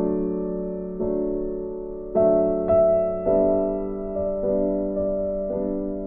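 Slow, gentle piano background music: single notes and chords struck about once a second and left to ring and fade.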